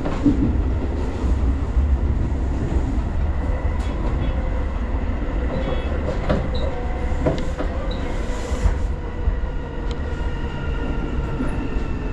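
Tobu Line local electric train running, heard from inside the passenger car: a steady low rumble with occasional clicks from the wheels over the rails. Thin whining tones run underneath, and a higher whine comes in near the end.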